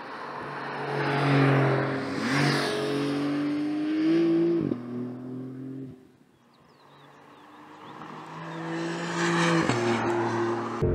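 Porsche 911 flat-six engine accelerating past, its note climbing to a peak and then dropping in pitch as it goes away, fading almost to nothing about six seconds in. A second pass builds toward the end.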